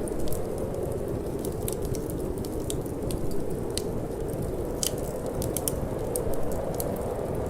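Wood fire burning in a fireplace: irregular sharp crackles and pops over a steady low rumble of flame and wind.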